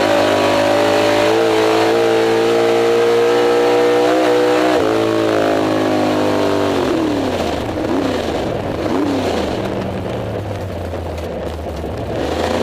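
Drag car's engine heard from inside the cabin during a quarter-mile pass. It is held at high revs under full throttle, with gear changes about a second and a half and five seconds in. About six and a half seconds in the driver lifts off, the engine note falls away with a few brief blips, and the engine settles to a low run as the car slows.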